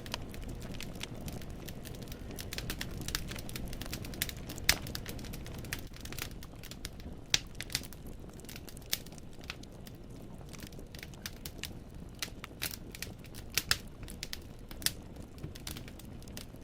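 Wood fire in a fireplace crackling, with irregular sharp pops from the burning logs over a low, steady rush of flames.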